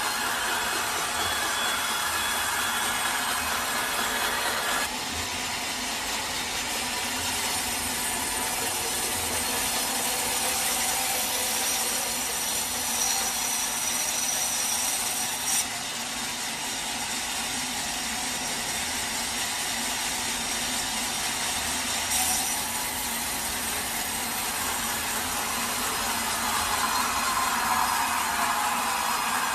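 Sawmill saw cutting through a teak log: a continuous sawing noise of blade in wood, which changes abruptly in tone a few times.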